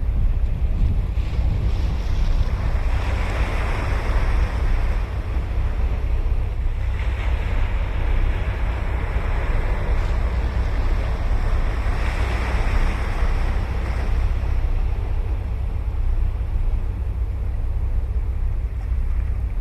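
Ocean waves breaking and washing up the beach, swelling three times about every five seconds, over a steady low rumble of wind on the microphone.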